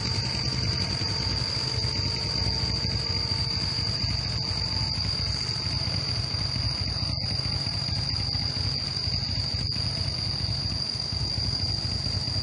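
Steady, high-pitched insect drone over a low rumble.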